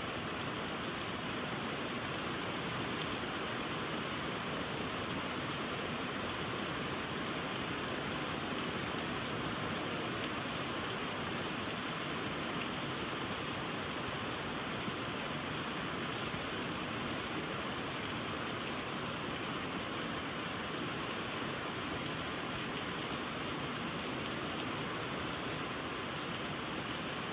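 Steady rainfall, an even, unbroken hiss of drops on leaves and pond water.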